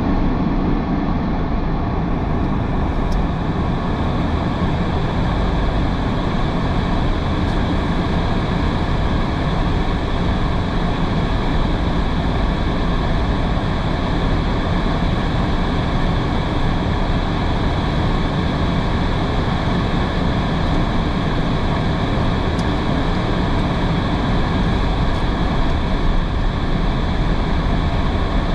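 Steady noise of a car driving in heavy rain: tyres on a wet road and a low road rumble, with rain on the car.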